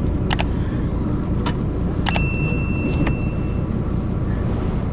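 Scania K340 coach running, heard from inside the cabin: a steady low engine and road rumble with a few sharp rattles and knocks. One knock, about two seconds in, is followed by a brief metallic ring.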